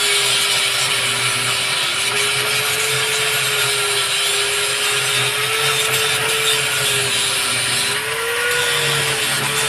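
Electric power tool running steadily: a motor whine that wavers slightly in pitch over a loud hiss, cutting off abruptly at the end.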